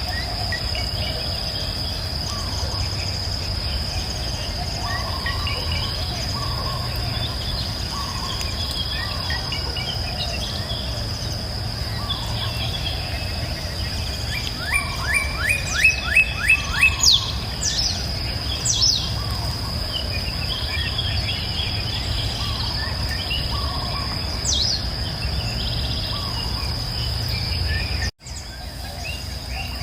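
Wild birds chirping and singing over a steady high insect drone and a low rumble of flowing river water. About halfway, one bird gives a quick run of about nine repeated notes, followed by a few sharp downward whistles. Near the end the whole sound drops out for an instant, then returns.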